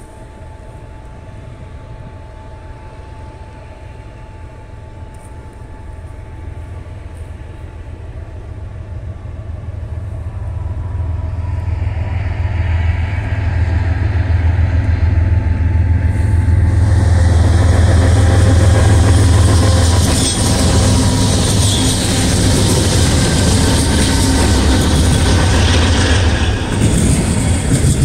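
Freight train led by BNSF diesel locomotives approaching, its engine rumble growing steadily louder for about fifteen seconds as the units pass. Then comes the steady rolling clatter of autorack cars going by.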